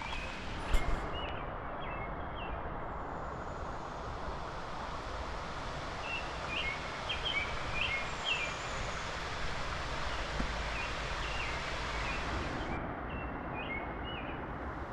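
Songbirds giving short, repeated chirps in small clusters over a steady background hiss of open woodland, with a single sharp click about a second in.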